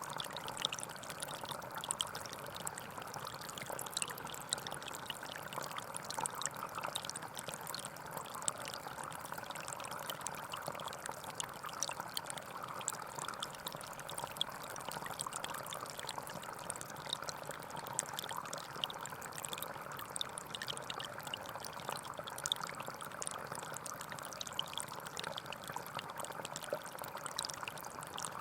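A gentle stream flowing steadily, a constant babble of running water with many small trickles and splashes.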